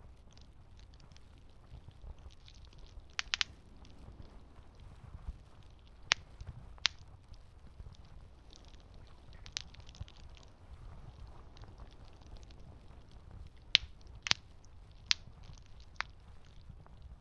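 Wood campfire crackling: irregular sharp pops and snaps, a quick cluster about three seconds in and several single ones spread after, over a low steady rumble.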